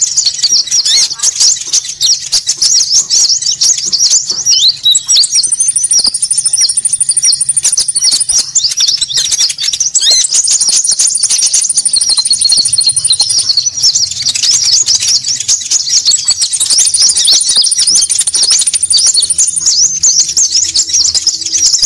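Konin birds' lure calls: a dense, continuous chorus of fast, high twittering chirps from several birds calling over one another. A very high rapid trill comes in three times, each lasting about three seconds.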